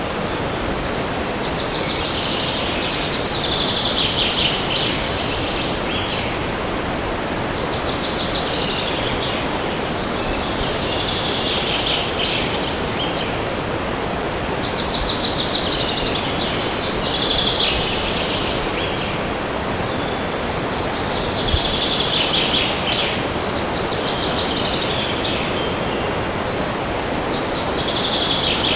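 Steady rush of wind through forest trees, with a songbird singing short, high, trilling phrases every few seconds.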